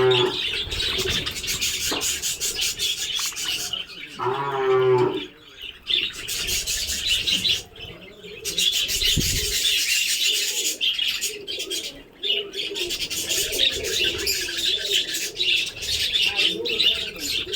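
A flock of budgerigars chattering and chirping continuously. A single drawn-out, lower-pitched call stands out about four seconds in.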